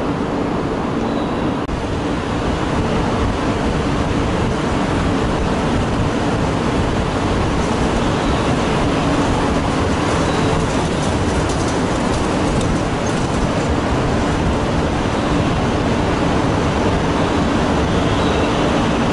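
Shinkansen train at the platform: a steady rumble and hum, growing slightly louder about two seconds in.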